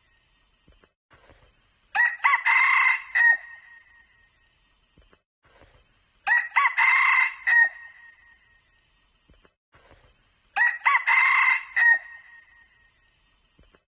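A red junglefowl cock crowing three times, about four seconds apart. The crows are short and clear, and each one looks the same as the last, as in a looped recording.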